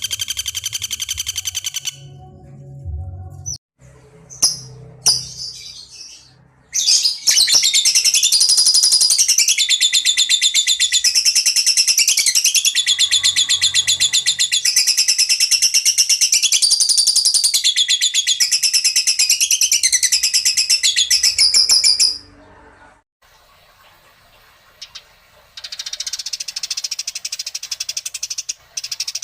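Songbird singing fast, high-pitched chattering trills whose phrases keep changing, with short calls before a long loud stretch of song that stops abruptly, then fainter song resumes near the end.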